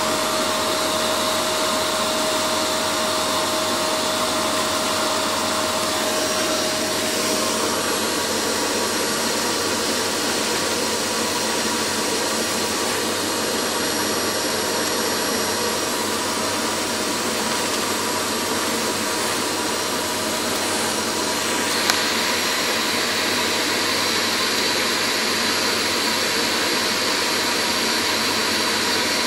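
Steady rushing noise of a vacuum cleaner drawing air through a two-cylinder Lego overhead-valve vacuum engine to run it. The tone shifts about seven seconds in, and again after a click about twenty-two seconds in.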